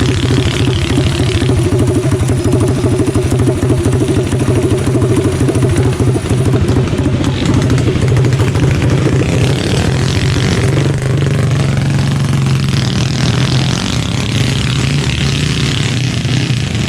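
Small single-cylinder minibike engine running at steady high revs, heard up close while riding laps.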